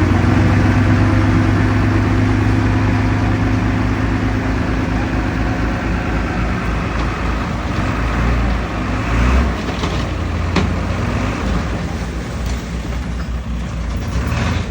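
Heavy diesel engine of earthmoving machinery running steadily, easing off after about eight seconds, with a few sharp knocks in the second half.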